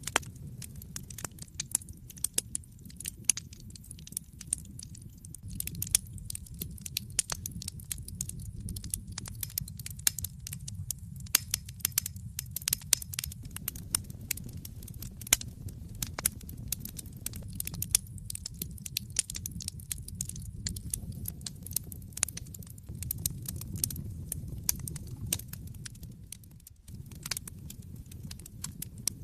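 Wood fire crackling in a fireplace: frequent irregular sharp pops and snaps over a low, steady rumble of the burning fire. The sound drops out for a moment near the end.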